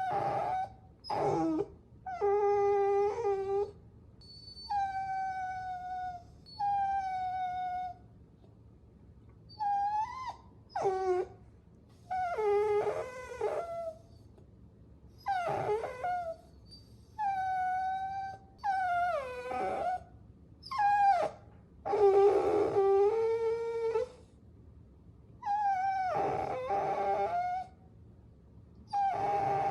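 Puppies whining: a string of high, drawn-out whimpers, each about a second long, some held steady and some wavering or sliding down in pitch, with short pauses between them.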